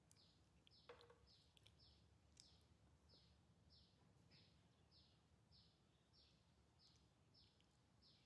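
A small bird calling: short high falling chirps repeated evenly, about one and a half a second, faint. One soft knock about a second in.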